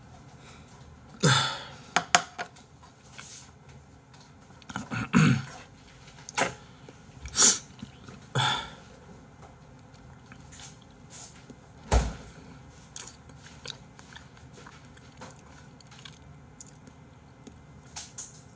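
Eating noises close to the microphone: chewing in several short bursts over the first nine seconds or so, with small clicks. A dull thump comes about twelve seconds in.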